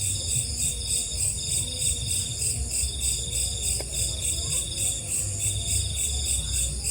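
Night insects, crickets among them, calling in a continuous pulsing chorus: a fast high trill with a lower shrill band that comes and goes in stretches of about a second, over a steady low rumble.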